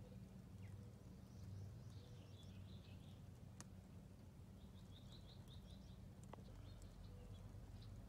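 Quiet outdoor background with a steady low hum, over which distant birds chirp faintly: a short burst about two seconds in and a quick run of repeated notes around five seconds in. Two faint clicks are also heard.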